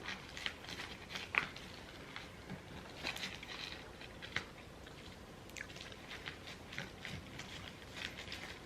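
Faint eating sounds: a person chewing food, with scattered small clicks and taps throughout.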